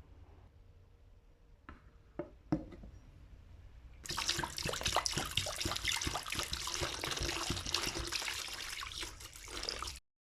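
A few light knocks, then running water splashing, which cuts off suddenly near the end.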